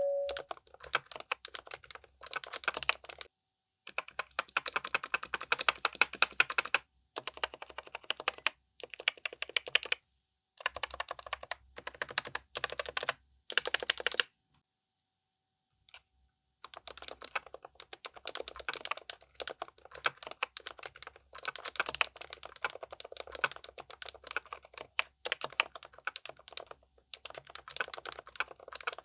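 Typing on a Keychron K10 Pro SE full-size mechanical keyboard with pre-lubricated K Pro silent red switches. Fast runs of keystrokes are broken by short pauses, with a silent gap of about two seconds around halfway.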